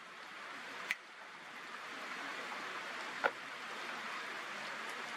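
Steady rain falling, with two sharper taps from drops, about a second in and a little past three seconds in.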